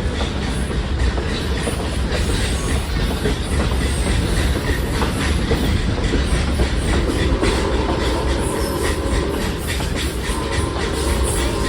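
Train running along the track, heard from aboard a passenger coach: a steady rumble with wheels clicking over the rail joints, and a faint steady whine joining about seven seconds in.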